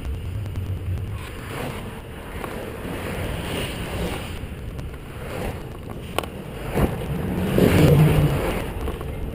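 Wind rushing over a bicycle-mounted GoPro's microphone while riding, with a steady low rumble and a few sharp clicks. The rumble swells louder briefly about three-quarters of the way through.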